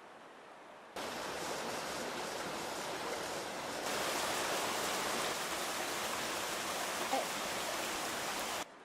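Rushing water, a steady noise with no pitch to it, like a stream or small waterfall. It starts abruptly about a second in, gets louder at about four seconds and cuts off suddenly near the end.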